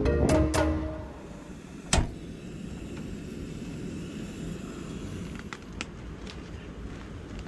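Background music ending within the first second, then a single sharp knock about two seconds in, followed by a steady low rushing noise with a few faint ticks.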